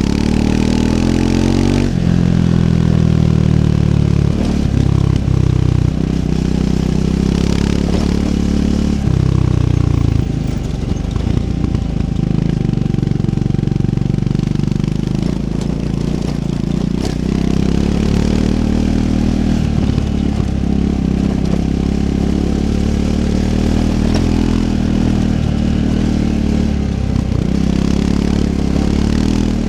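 Triumph Scrambler 400 X's single-cylinder engine running under load off-road, the revs climbing and dropping again and again as the rider works the throttle and gears, with a few sharp knocks from the bike over rough ground.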